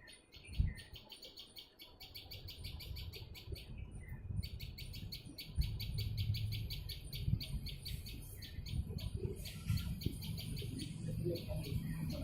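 Small birds chirping in long, rapid runs of high notes, with a steady low rumble underneath.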